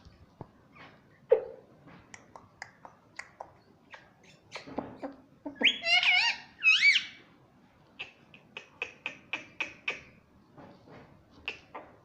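Indian ringneck parrot vocalising: soft clicks and chatter, then two loud calls with wavering pitch about halfway through, followed by a quick run of short chirps.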